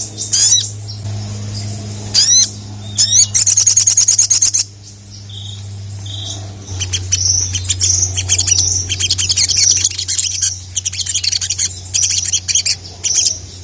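Sogon (sogok ontong, little spiderhunter) singing loudly: quick rising sweeps and fast trills, a brief pause with two short clear notes, then a run of rapid high chips. A steady low hum runs underneath.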